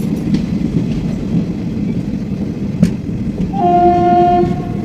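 Indian passenger train running, heard from inside the coach as a steady low rumble. A single knock comes about three seconds in, then a locomotive horn sounds once for about a second near the end.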